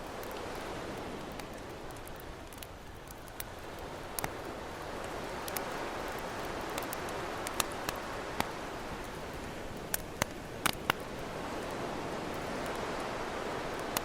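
Campfire crackling with scattered sharp pops, several close together about ten seconds in, over ocean waves washing in and out in slow swells.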